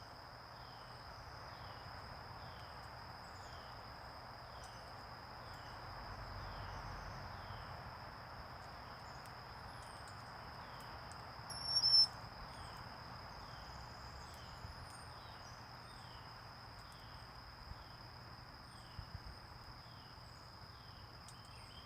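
Outdoor insect chorus: a steady, unbroken high-pitched drone with a soft background hiss, and a short falling note repeating about once a second. About halfway through, a single brief, louder bird call stands out.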